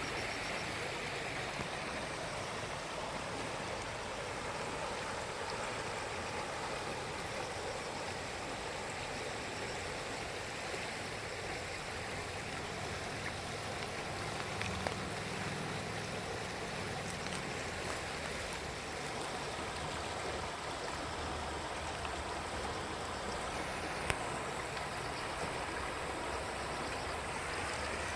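River water rushing steadily, the Iruma River running after a typhoon's rains, with a low rumble rising under it about halfway through.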